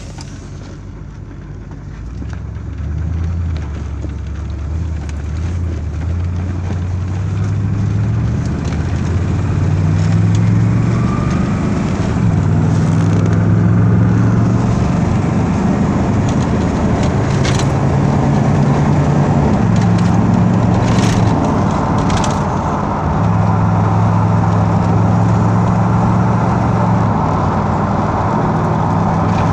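Car engine running, heard from inside the cabin as the car pulls away and drives. Its low note steps up and down in pitch with speed and gear changes, and a few sharp clicks come about two-thirds of the way through.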